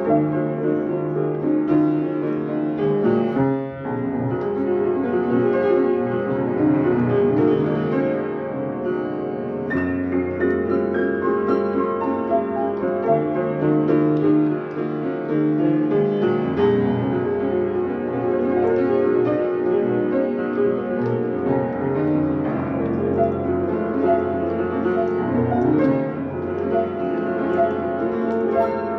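Solo piano improvisation: chords and melody notes played with sustain, the notes ringing on over one another.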